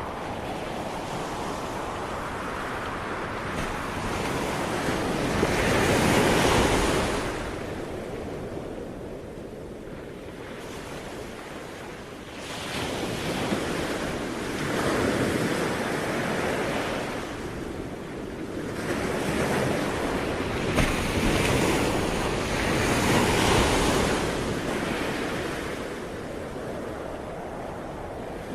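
Sea waves breaking and washing onto a shore, swelling and fading in slow surges about every six to eight seconds, with some wind noise.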